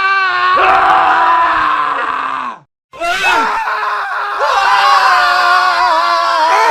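Men screaming: one loud scream that breaks off about two and a half seconds in, then after a brief gap several overlapping male screams.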